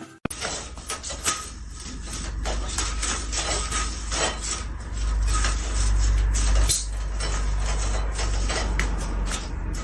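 Irregular clattering and knocking of hard objects over a steady low rumble.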